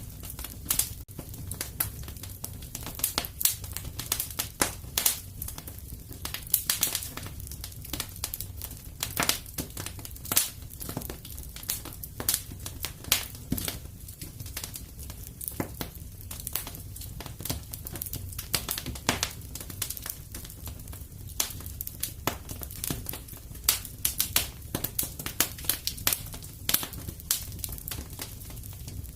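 Wood fire crackling in a fireplace: frequent sharp pops and snaps at irregular intervals over a steady low rumble of the burning fire.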